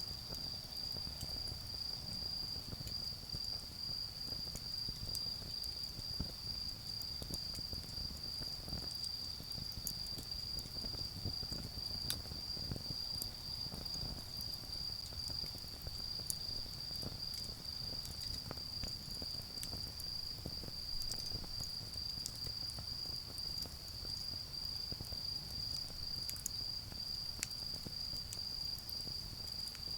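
Autumn insects singing one continuous high-pitched trill, with now and then a faint crackle or tick from a charcoal fire.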